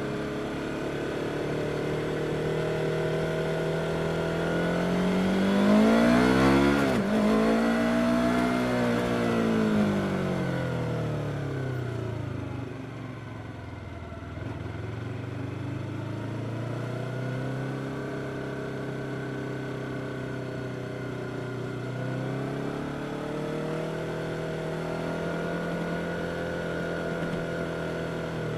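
Yamaha R25 parallel-twin motorcycle engine under way: the revs climb to a peak about six seconds in, fall away over the next several seconds, then pick up again and hold fairly steady.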